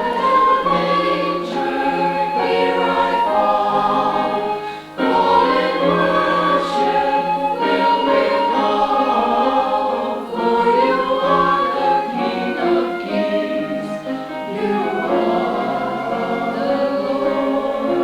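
Choir singing in several parts, with a brief break between phrases about five seconds in.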